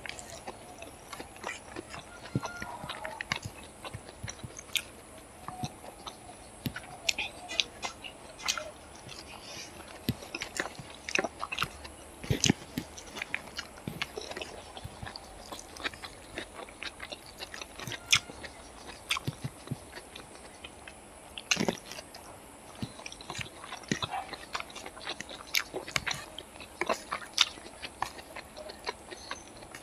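Close-up chewing and mouth sounds of a person eating chicken fried rice by hand, with many short, irregular clicks.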